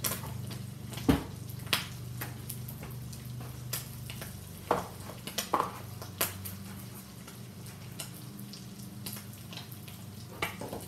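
Bacon, garlic and mixed vegetables frying in a hot wok: a steady sizzle over a low steady hum, with scattered clicks and knocks, the loudest about a second in.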